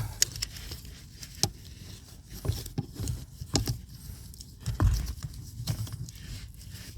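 Scattered light clicks and knocks, with a few dull thumps, of metal parts handled while the steering rack's pinion is turned by hand to line up with the steering column's universal joint.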